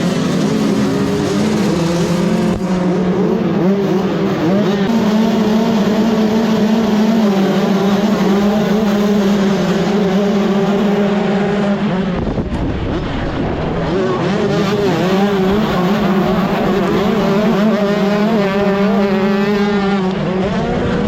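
125cc two-stroke motocross bike engine running hard at high revs. The revs drop and break up about twelve seconds in, then climb back up and hold high again.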